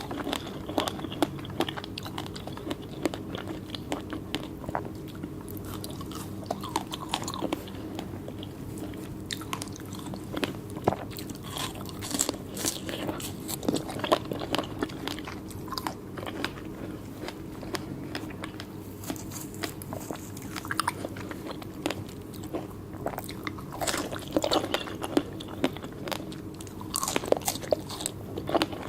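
Close-miked biting and chewing of fresh fruit: irregular crisp, crunchy bites and wet mouth clicks throughout, with a steady low hum underneath.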